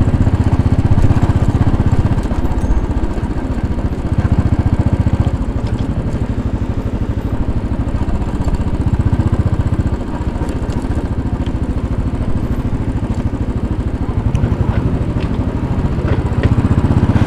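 2010 Royal Enfield Bullet 500's single-cylinder four-stroke engine running steadily in slow city traffic, heard from the bike itself as an even train of firing pulses.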